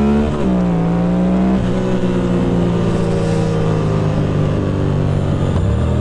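Motorcycle engine under load: the revs climb, drop as it shifts gear, then hold steady while it cruises, rising again near the end.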